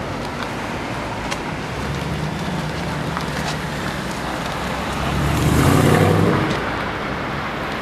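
Cars driving past on a street. A black Mercedes-Benz AMG coupe accelerates past close by, and its engine swells to the loudest point about five and a half to six and a half seconds in, then fades. Before that there is a lower engine drone as another car pulls away.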